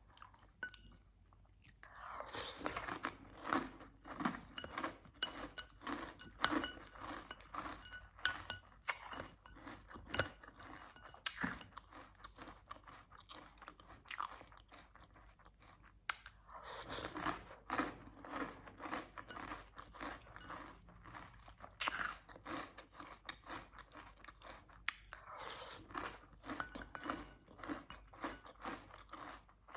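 Close-miked chewing and crunching of chocolate cereal soaked in chocolate milk, a quick run of crunches in steady rhythm, broken by a few short pauses between mouthfuls.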